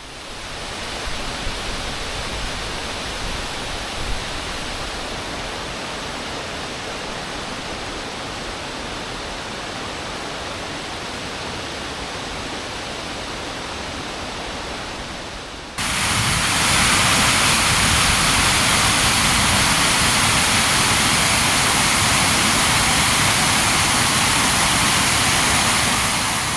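Steady rush of Mill Shoals Falls pouring over the rocks. About 16 seconds in it jumps suddenly to a louder, brighter rush, then cuts off at the end.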